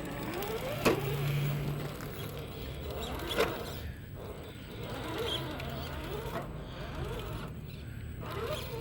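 Electric motor and gearing of an Axial SCX10.3 RC rock crawler whining, the pitch rising and falling as the throttle is worked. Two sharp knocks, about one second and three and a half seconds in.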